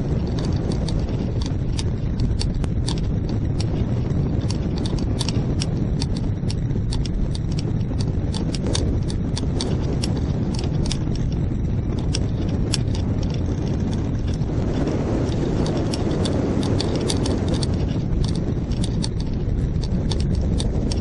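Wind buffeting the microphone during a hang glider flight: a loud, steady rumble that swells with a stronger gust about fifteen seconds in. Sharp irregular clicks, several a second, run through it.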